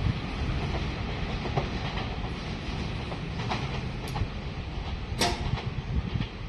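Electric multiple-unit commuter train pulling out and running past, its wheels clacking over the rail joints over a steady rumble. Two brief high squeals about four and five seconds in.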